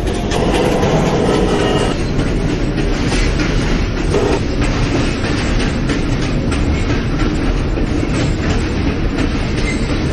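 New York City subway J train running between stations: a steady rumble with rapid clicking of the wheels over rail joints, heard from inside the car.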